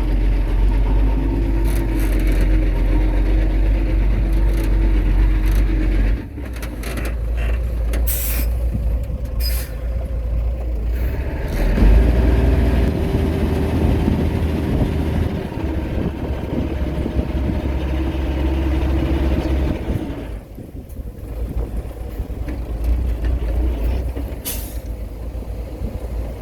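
Heavy diesel engine of earthmoving machinery working under changing load, its low rumble dipping and surging several times. A few short hisses come about a third of the way in and again near the end.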